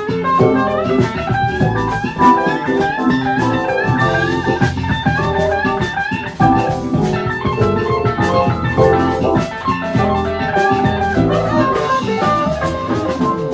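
A band plays an instrumental break: a guitar lead line over drum kit, with no vocals.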